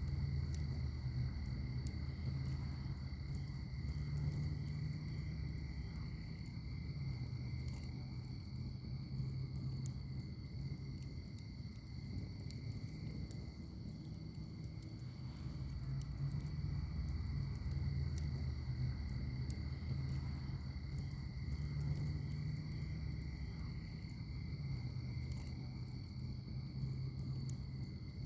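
Wood fire in a fire pit crackling, with scattered sharp pops over a low rumble of flames that swells and eases. A steady high-pitched whine runs behind it.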